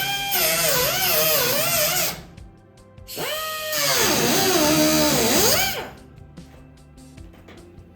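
High-speed power tool cutting into the rusted sheet metal of a car's window glass channel, its whine wavering and dropping in pitch as it loads up. It runs about two seconds, stops, starts again about a second later and bogs down deeply before cutting off near six seconds, followed by a few light clicks.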